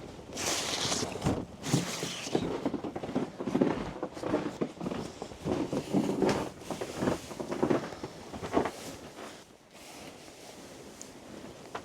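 Footsteps crunching through deep fresh snow, an uneven series of steps that stops near the end.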